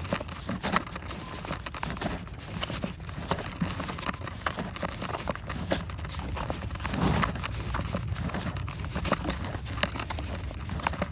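A bike and its mounted camera jolting over a rough trail: irregular clicks and knocks over a steady low rumble, a little louder about seven seconds in.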